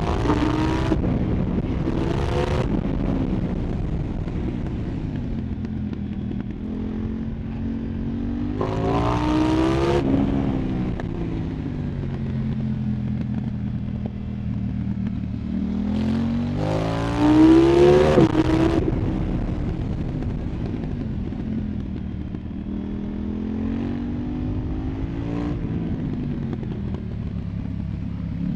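2024 KTM 990 Duke's parallel-twin engine through an Arrow Pro Race exhaust, ridden on the road: it pulls up through the revs twice, about a third of the way in and again past the middle, the second and louder pull ending about two-thirds through, with steadier running and falling revs between.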